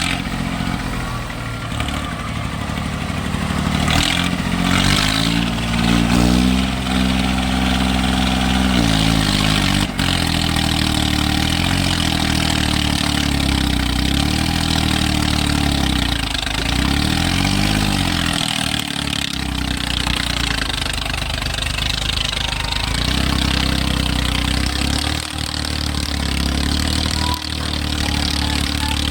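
Diesel tractor engines labouring under heavy load in a tractor tug-of-war, running steadily with the revs swinging up and down a few times.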